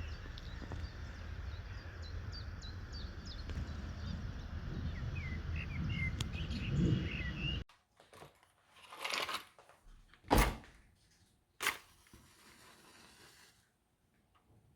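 Outdoor ambience with small birds chirping over a steady low rumble, cut off abruptly a little over halfway through. A quiet room follows, with soft rustling and two sharp knocks or clatters, the first the loudest.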